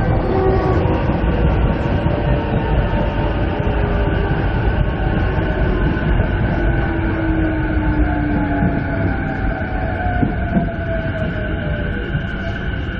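Interior running sound of a JR East 209 series 500 EMU motor car: a steady rumble of wheels on rail, with the traction motors' whine slowly falling in pitch as the train slows.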